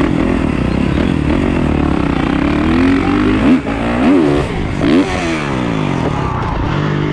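Dirt bike engines running, revved up and down sharply several times about halfway through, then settling back to a steady note.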